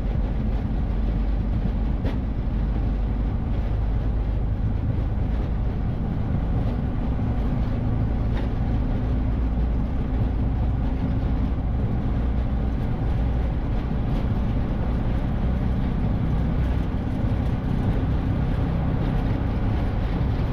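Steady low rumble in a Boeing 727-200 cockpit during takeoff: the three Pratt & Whitney JT8D turbofans at takeoff thrust, with the rush of air over the airframe.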